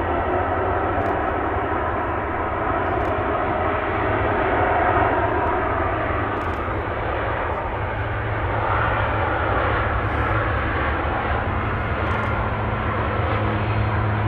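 Jet airliner engines running, a steady loud rush with faint whining tones, and a low hum that grows stronger near the end.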